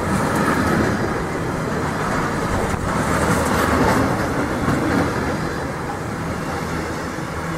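A train running past on the rails, a continuous sound of wheels and running gear that swells slightly partway through.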